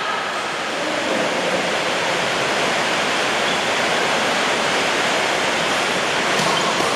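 Heavy rain pouring down, a steady dense hiss with no break.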